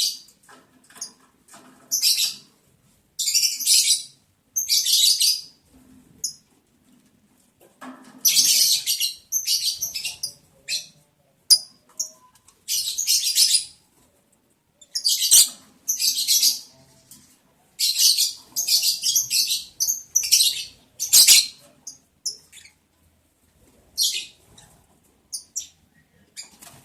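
Lovebirds making repeated short, harsh bursts of high sound, each under a second, at irregular intervals.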